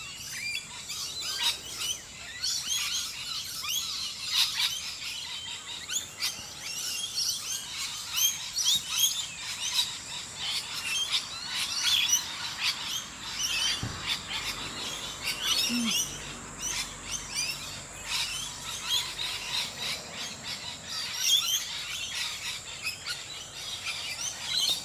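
Morning chorus of many wild birds chirping and singing over one another, with a faint steady high-pitched tone underneath.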